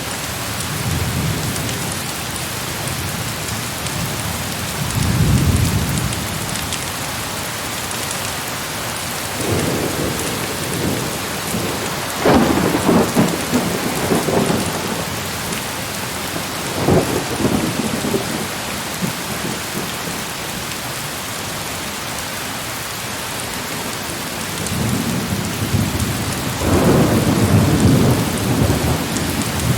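Heavy rain falling steadily, with several rolls of thunder rumbling over it. There is a sharper, brighter peal about twelve seconds in, and a longer rumble near the end.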